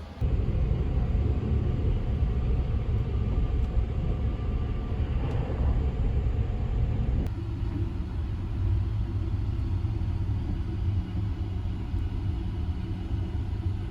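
Low, steady rumble of the Sunrise Izumo sleeper train running on the rails, its tone shifting slightly a little past halfway.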